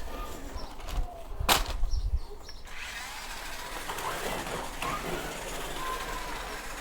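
Small electric motor of a remote-control car whirring as it drives, with a sharp knock about a second and a half in.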